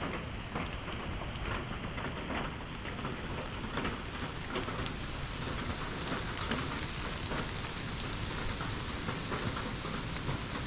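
Steady rain falling, with many individual raindrops ticking and pattering on nearby surfaces close to the microphone.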